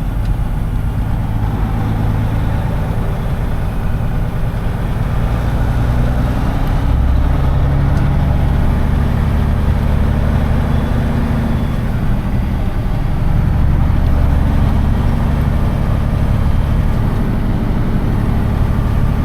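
Semi truck's diesel engine running at low speed, its low note changing pitch twice as the truck manoeuvres.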